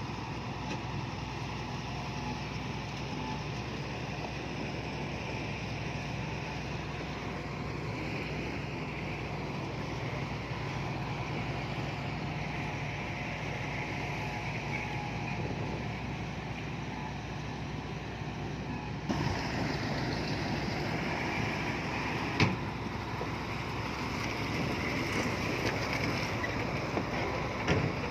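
Diesel engine of heavy earthmoving machinery running steadily. The sound changes abruptly about two-thirds of the way through, and a sharp knock follows a few seconds later.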